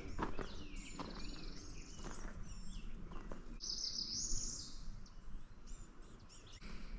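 Several wild birds singing and calling in spring woodland, with many short chirps and whistled notes. A loud, buzzy trill comes a little past halfway.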